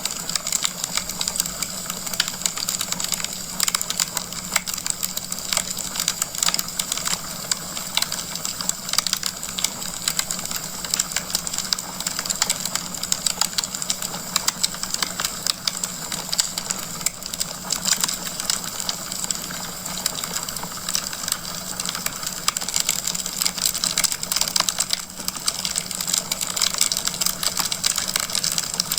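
Wood fire crackling in a fireplace: a steady, dense run of small pops and snaps from the burning logs, with no pauses.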